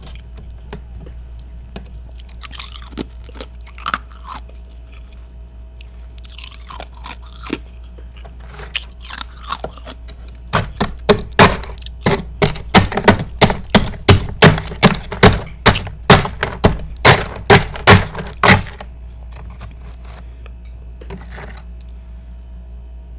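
A person biting and chewing ice close to the microphone: freezer frost and thick ice pieces crunching between the teeth. Scattered small crunches at first, then about ten seconds in a run of loud crunches, two to three a second for about eight seconds, which then stops. A low steady hum runs underneath.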